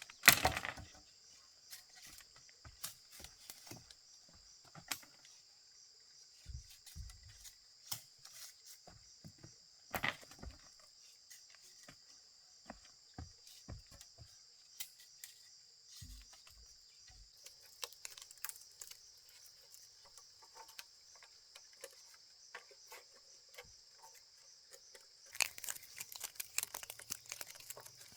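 A steady, high-pitched insect drone with scattered clicks, knocks and rustles over it. The loudest knocks come at the very start and about ten seconds in, and the clicking gets busier near the end.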